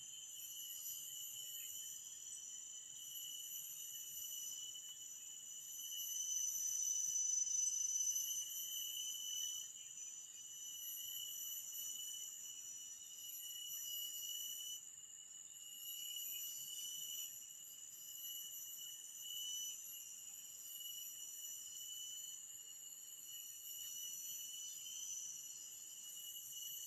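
Steady, high-pitched chorus of forest insects, several shrill tones layered on one another, swelling and fading every few seconds.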